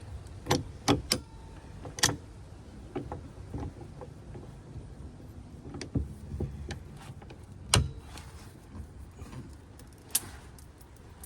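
Scattered sharp metallic clicks and knocks as a hand tool is fitted to and worked against a jammed, crushed truck door, about seven in all; the loudest comes near the end.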